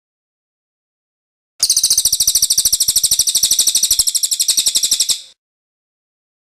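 Cililin bird giving its rolling trill song: one fast, even, high trill of about a dozen notes a second. It starts about a second and a half in and stops abruptly after about three and a half seconds.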